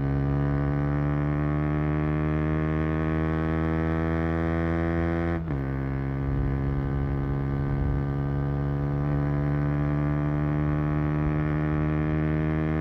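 KTM Duke 125's single-cylinder four-stroke engine and exhaust pulling under acceleration, the pitch rising steadily with the revs. About five and a half seconds in, an upshift drops the pitch sharply before it starts climbing again.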